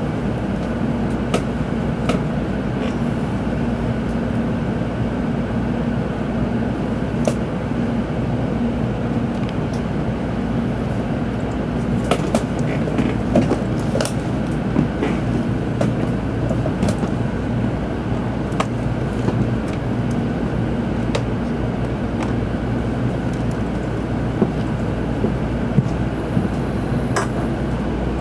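Tōkaidō Shinkansen passenger car's running noise, heard from inside the car: a steady rumble and hum with a faint steady tone and scattered sharp clicks.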